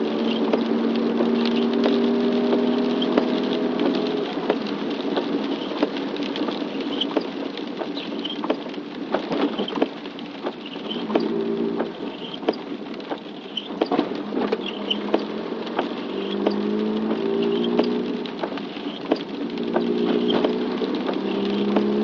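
Raindrops pattering as irregular sharp taps over a steady hiss, with an engine hum whose pitch glides slowly; the hum fades out after a few seconds and comes back in the last few seconds.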